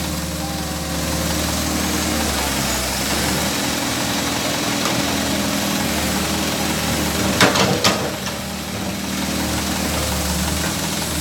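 Excavator's diesel engine running steadily at a low, even pitch. A short cluster of sharp knocks comes about seven and a half seconds in.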